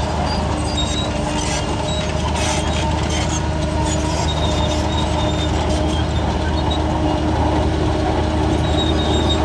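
Shantui DH17 crawler bulldozer's diesel engine running steadily under load, with a deep drone and scattered short high-pitched squeaks.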